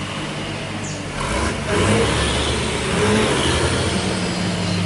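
Heavy truck's diesel engine running under load, growing louder about a second in, with a short hiss.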